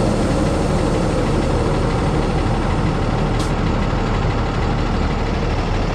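Hino rollback tow truck's diesel engine idling steadily while the air system slowly builds pressure back up after the PTO has been shut off.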